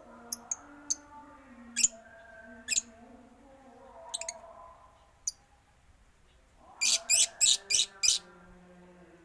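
Caged birds in a mixed aviary of starlings, zebra doves and lovebirds calling: sharp high chirps scattered through, with a quick run of five loud ones about seven seconds in, over lower wavering drawn-out calls.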